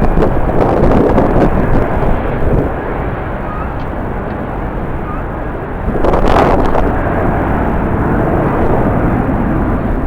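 Jet airliner noise with strong wind buffeting the microphone, a steady rush that swells in gusts, loudest at the start and again about six seconds in.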